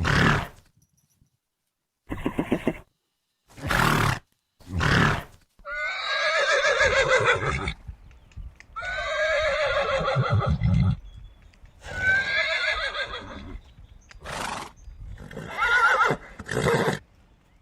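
A horse whinnying: three long, wavering neighs with short breathy bursts before and after them.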